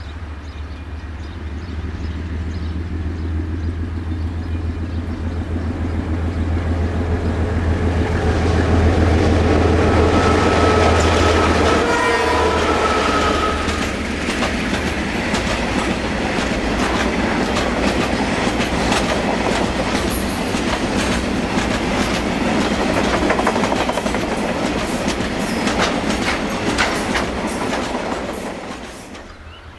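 A diesel freight locomotive approaches, its engine drone building up and dropping away as it passes about twelve seconds in. A long string of milk tank wagons then rolls by close, with the rapid clickety-clack of their wheels on the rails, cutting off near the end.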